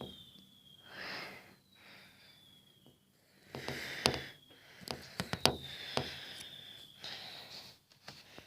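A person breathing softly close to the microphone, with a cluster of faint sharp clicks about four to five seconds in.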